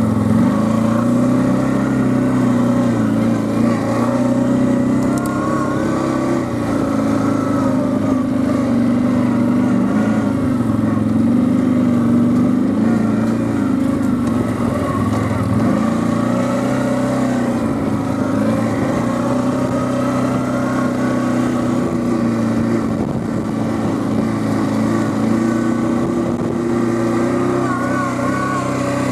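Quad bike (ATV) engine running under way, its revs rising and falling every few seconds as it is ridden.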